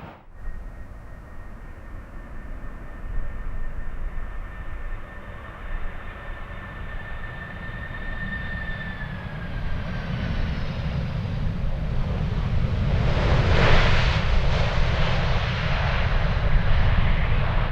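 Jet airliner's engines passing close: a steady high whine that falls in pitch about nine seconds in, over a rumble that swells into a loud roar near the end.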